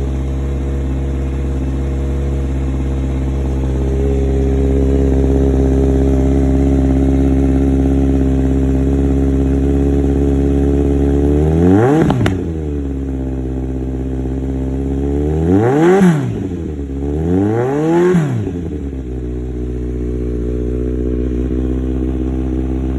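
2017 Kawasaki Z900's inline-four engine idling steadily through a Delkevic header and MGP Growler aftermarket exhaust, extremely loud. About halfway through it is blipped once, then twice more in quick succession; each time the pitch climbs and drops back to idle.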